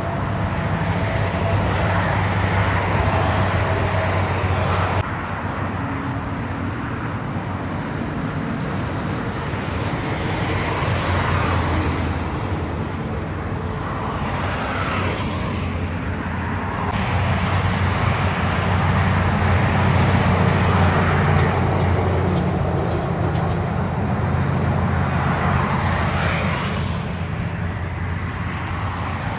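Heavy diesel trucks passing on a road: a steady low engine rumble under tyre and road noise that swells and fades with each pass. The sound shifts abruptly twice, about five seconds in and just past the middle.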